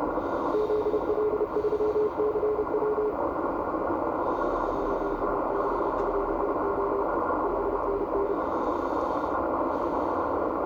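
Morse code (CW) signal on the 17 m amateur band coming out of a shortwave transceiver's receiver: a single steady tone keyed into dits and dahs in two runs, a pause of about a second and a half between them, over constant band hiss.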